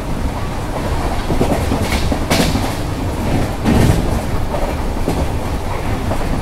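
Passenger train running along the track: a steady low rumble with the wheels clicking over rail joints, two louder knocks a little over two and about four seconds in.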